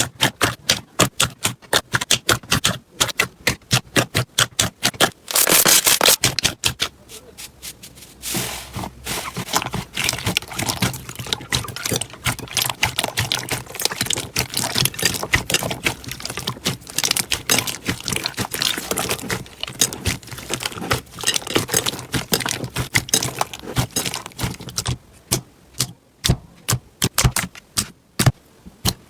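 Slime being worked by hand: rapid sticky clicks and pops, several a second, then a long denser stretch of crackling and squelching, before separate clicks return near the end.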